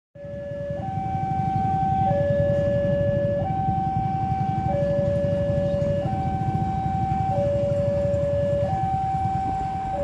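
Two-tone electronic warning alarm alternating steadily between a low and a high note, each held about a second and a half, over a steady low rumble.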